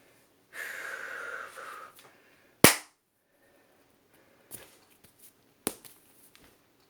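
A man's forceful, hissing breath in a tiger-style qigong routine, followed by one very sharp, loud smack, then a second smaller smack and a few faint clicks a few seconds later.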